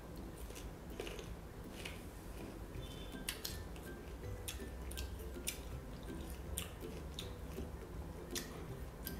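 Close-up chewing of crisp green ambarella: irregular crunches, about one or two a second.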